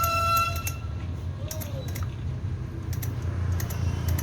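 Irregular small metallic clicks and rattles as the chainsaw's chain and parts are handled, over a steady low hum. A short high-pitched tone fades out about a second in.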